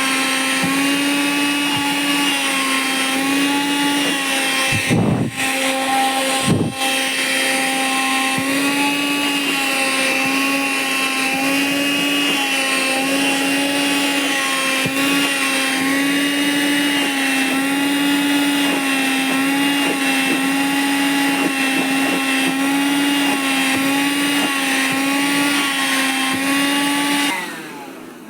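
Vacuum cleaner running steadily, its motor tone wavering slightly as the nozzle sucks at nylon windbreaker trousers, with two brief dips in the sound about five and six and a half seconds in. Near the end the motor is switched off and winds down.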